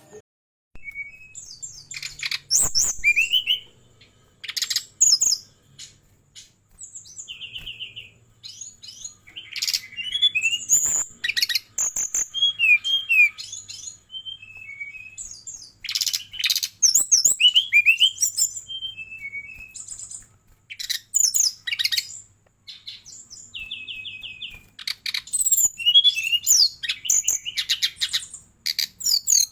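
Fulvous-chested jungle flycatcher singing a long run of quick, varied phrases: rapid trills, sharp high notes and short rattles, broken by brief pauses.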